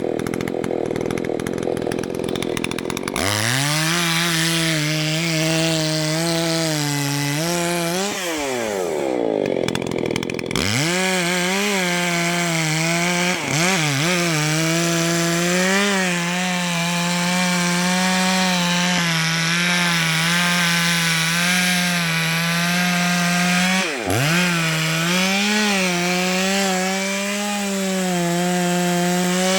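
Gas chainsaw cutting into a large tree trunk, engine held at high revs under load. A few seconds in it climbs to full throttle; around eight seconds the revs fall away and come back up, with two more brief dips later.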